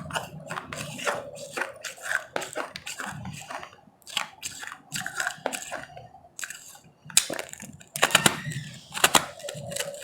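Powdery frozen ice being bitten and chewed close to the microphone: irregular crisp crunches with short pauses, then a denser, louder run of crunching near the end.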